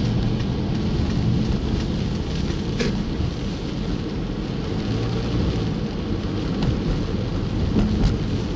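Steady rumble inside a moving car in rain: the engine and tyres on a wet road, with rain on the car and a few faint ticks.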